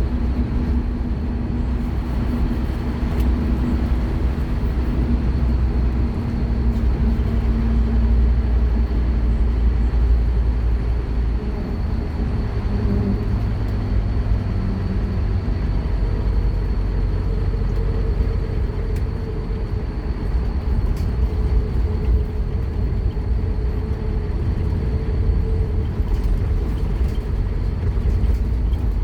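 Scania K230UB Omnilink single-deck bus engine running under way, heard from on board, a steady low drone whose engine note shifts about twelve seconds in as the bus changes speed or gear.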